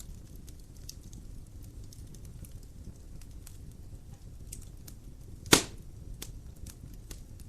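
Wood fire in a fireplace crackling: scattered small snaps over a low rumble, with one loud, sharp pop about five and a half seconds in.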